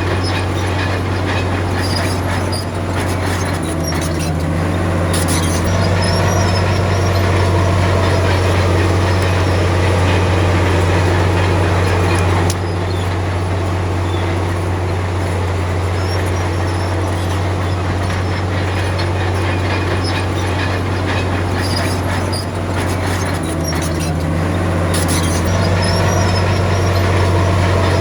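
Komatsu D53P crawler bulldozer's diesel engine running steadily under load, with squeals and clanking of its steel tracks coming and going twice.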